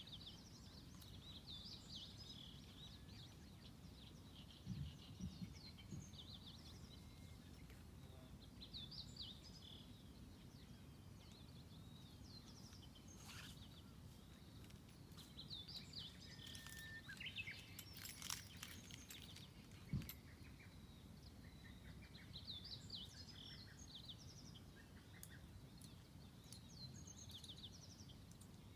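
Small birds chirping and twittering faintly, call after call, over a low steady rumble, with a couple of soft knocks about five seconds in and again near the middle.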